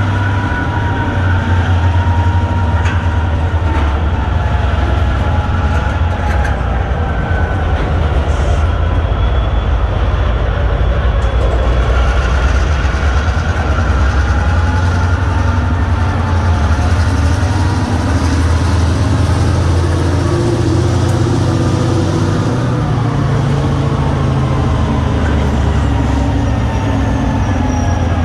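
EMD diesel locomotives of a yard job, an SD40-2 and a GP38-2, running with a heavy, steady low engine drone as they move cars. Thin high squeals waver up and down over it, from wheels grinding on the rails.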